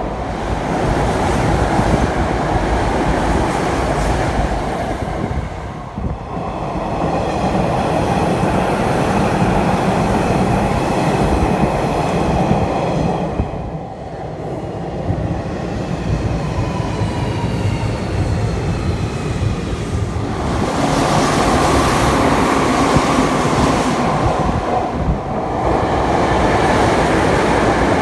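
Electric commuter trains running past a station platform: a steady rumble and clatter of wheels on rail. The sound eases briefly about 6 and 14 seconds in, carries a faint high whine in the middle, and grows louder from about 20 seconds in as a train passes close by.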